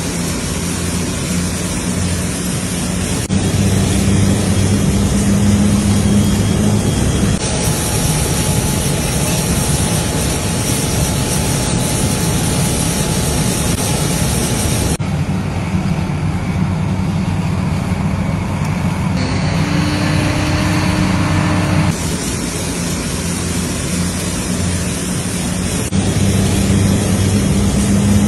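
Steady airliner noise of an Airbus A380 landing, a continuous rumble with a low hum, changing abruptly several times where short clips are joined.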